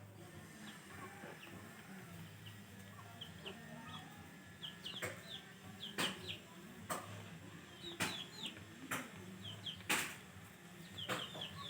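Hens clucking, with short high chirps that come more often in the second half. From about five seconds in there are sharp clicks about once a second.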